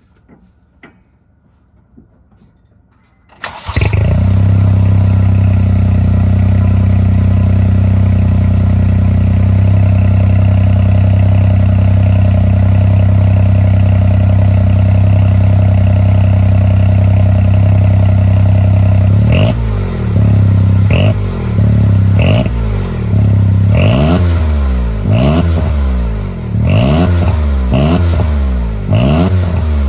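Honda S660's small three-cylinder engine with a straight-pipe exhaust under the floor. It starts up about three seconds in after a few faint clicks and idles steadily. In the second half it is blipped about eight times, roughly every second and a half, the pitch rising and falling with each rev.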